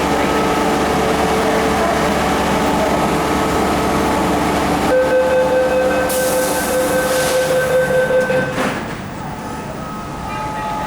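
MTR Metro-Cammell M-Train electric multiple unit running, heard from inside the car: steady running noise with a motor whine. About five seconds in a stronger whine comes in, with a hiss over it. Both cut off suddenly near nine seconds, and the running noise is quieter after that.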